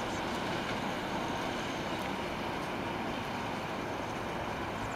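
Freight train of open wagons rolling past at a steady speed, a continuous noise of wheels on the rails.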